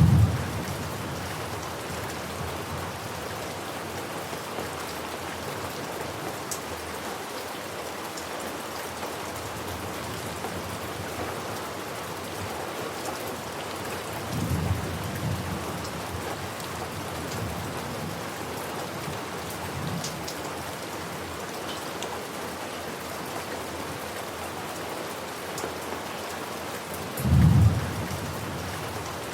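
Steady rain falling, with thunder rumbling low beneath it: a loud rumble at the very start, a softer, rolling one about halfway through, and another loud one near the end.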